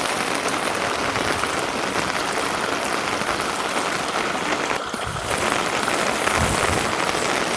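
Steady rain falling, a dense even hiss with a brief dip about five seconds in.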